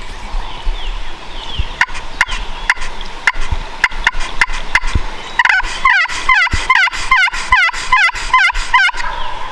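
Turkey yelping: a long run of evenly spaced yelps, slow at first, then quicker and louder from about five seconds in, stopping shortly before the end.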